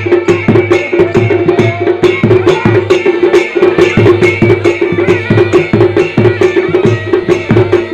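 Kumaoni dhol and damau drums beating quick, steady strokes, with a masakbeen (bagpipe) holding a steady drone under a reedy melody: chholiya dance band music.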